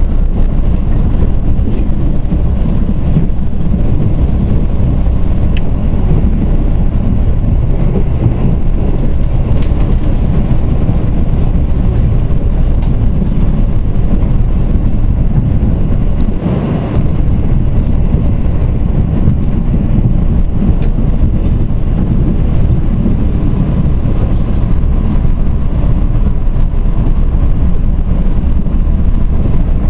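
Korail Mugunghwa passenger train running at speed, heard from inside the coach as a loud, steady rumble of wheels and running gear. The noise dips briefly a little past halfway.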